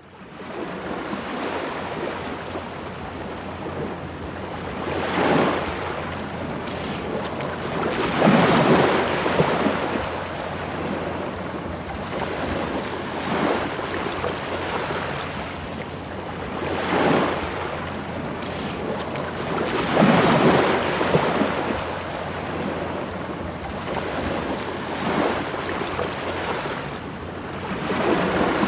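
Sea waves breaking on the shore, a louder surge every few seconds over a steady wash of surf.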